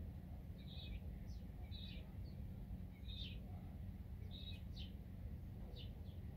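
A small bird chirping repeatedly, a short call about once a second with fainter thin notes in between, over a steady low outdoor rumble.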